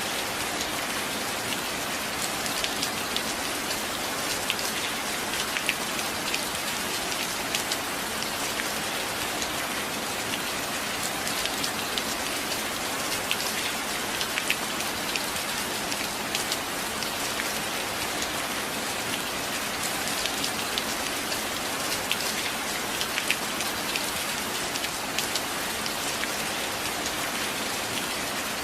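Steady rainfall on a surface: a dense, even hiss of rain with many small drops ticking through it.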